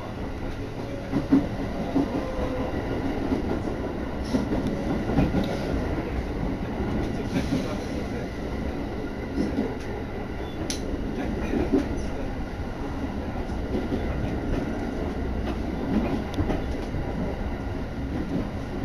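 Electric commuter train running on the Shinetsu Line, heard from inside the carriage: a steady rumble of wheels on rail, with occasional sharp knocks.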